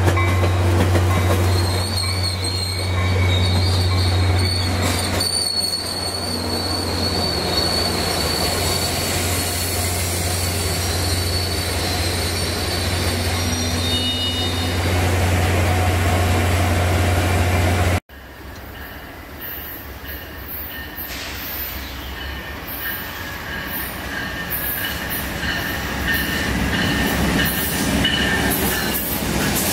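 Caltrain MP36PH-3C diesel locomotive and its bi-level cars moving through the station, with a strong steady low drone from the locomotive and high steel wheel squeal from the rails. After a sudden cut about two-thirds in, it is quieter, and a second train approaches with its sound building and wheel squeal rising near the end.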